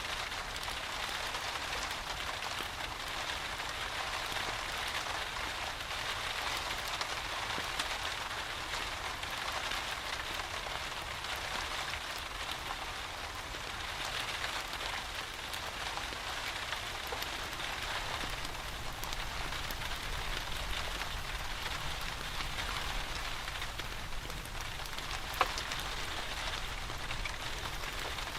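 Steady rain falling, an even patter of drops. A single sharp click or pop stands out near the end.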